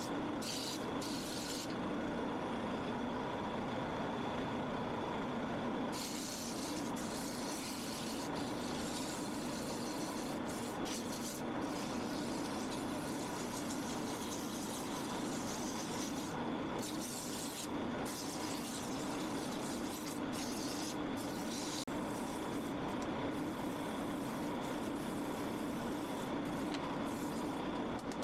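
Shopsmith lathe motor running steadily while sandpaper is held against the spinning maple blank, a hiss that stops and starts as the paper is lifted off and pressed back on.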